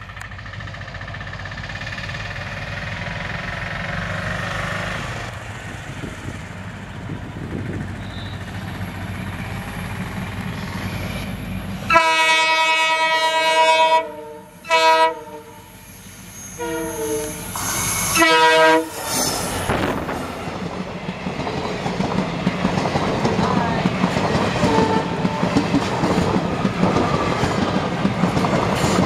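WDG4 diesel locomotive with an EMD two-stroke V16 engine, its engine rumble growing louder as it approaches. About twelve seconds in, its multi-tone air horn sounds one long blast of about two seconds, followed by three shorter blasts. A long rake of passenger coaches then rolls past, wheels clicking steadily over the rail joints.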